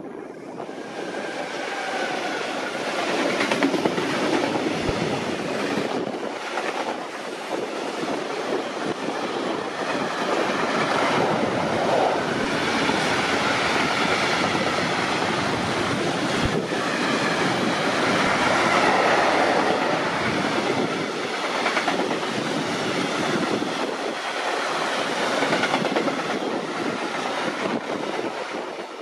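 Deutsche Bahn train passing close by, its wheels clattering rhythmically over the rail joints for nearly half a minute, the noise building up in the first few seconds.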